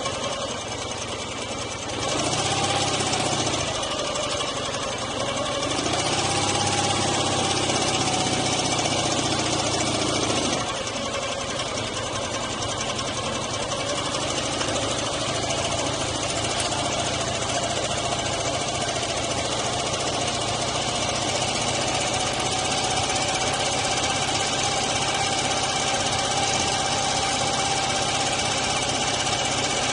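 Dnepr MT-9 sidecar motorcycle's flat-twin engine pulling away. The revs rise about two seconds in and drop at a gear change about ten seconds in. After that it runs steadily at cruising speed.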